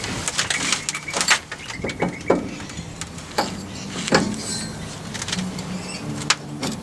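Metal clinks and knocks of hand tools and bolts while the rear tail shaft (driveshaft) is being refitted to the diff, several hits ringing briefly. Birds chirp in the background.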